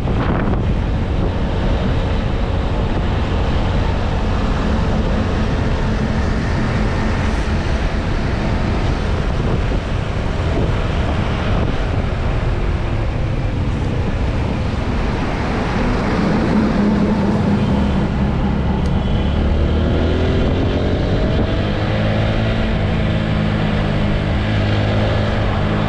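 Wind rushing over the microphone of a moving motorcycle, with the TVS Apache RTR 160 4V's single-cylinder engine running underneath. From a bit past halfway, a steadier engine hum comes through, its pitch drifting up and down.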